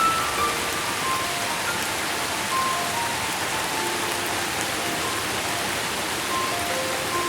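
Steady rain falling, an even hiss of many drops. Sparse, soft melodic notes of different pitches sound over it.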